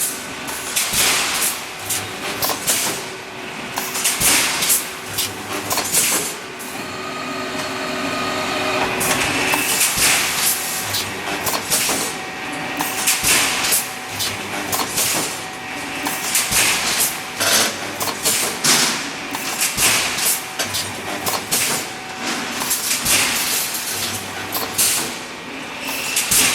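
Pneumatic rebar mesh welding machine running: repeated metallic clanks with bursts of compressed-air hiss, and a steadier stretch with a few steady tones about seven to nine seconds in.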